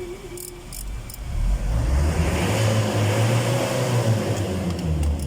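A few light clicks, then a motor vehicle engine comes up about a second and a half in. It runs loud for a few seconds, its pitch rising and then falling, and drops away near the end.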